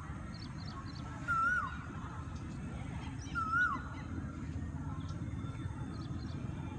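A bird calls twice, each a short call that rises slightly, holds and then drops sharply in pitch, with a fainter call near the end. A steady low rumble runs underneath.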